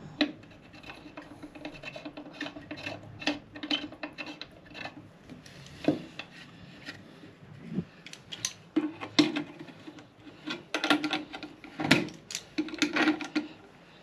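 Hand tools working a metal pipe fitting and valve: irregular clicks and knocks with short bouts of rubbing and scraping, the busiest stretch in the second half, as the fitting is tightened up.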